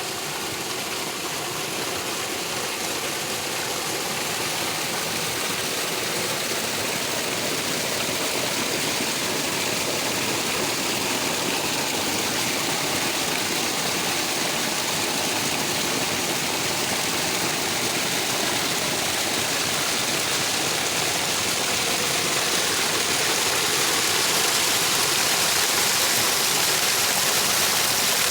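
Running water, a steady even rush that grows gradually louder.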